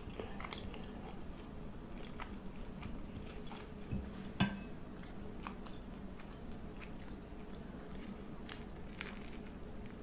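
Close-up chewing and crunching of food, with short mouth clicks scattered throughout and a single louder knock about four and a half seconds in.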